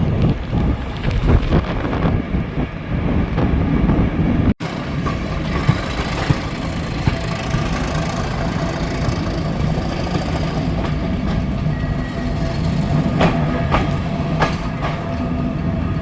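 A Class 37 diesel-hauled train running along the line. There is a short break about four and a half seconds in, after which the running sound is steadier, with a faint held tone over it.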